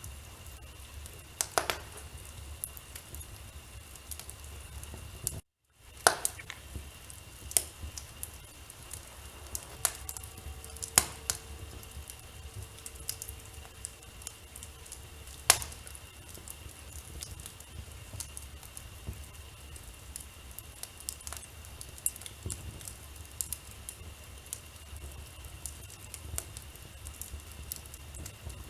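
Wood fire burning in a fireplace, crackling with irregular sharp pops over a low rumble of the flames. The sound drops out completely for a moment about five and a half seconds in.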